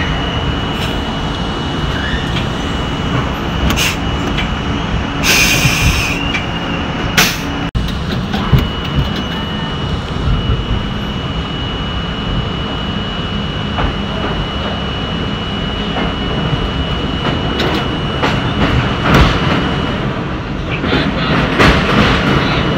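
Train running, a steady rumble with a thin high whine over it, a short loud hiss about five seconds in, and a few sharp clicks.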